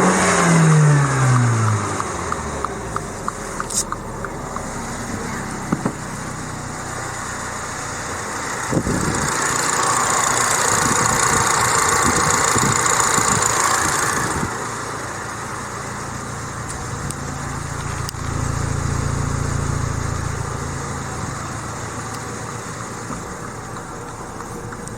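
MINI Cooper S's B48 2.0-litre turbocharged four-cylinder engine during a start test. Its revs fall back to idle in the first couple of seconds, then it idles steadily, swelling twice in loudness.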